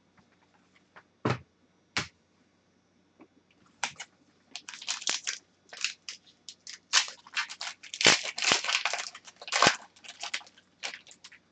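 Crinkling and crackling of a trading card pack wrapper as the pack is handled and opened, with two sharp knocks early on and dense crackling building through the rest.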